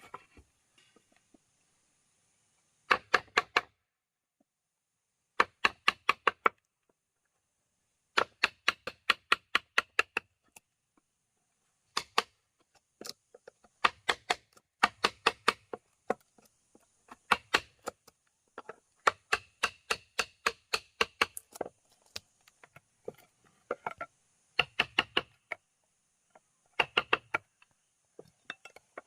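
Rapid taps of a tool striking wood, in short runs of about nine to ten quick knocks, repeated roughly every one to two seconds with silences between.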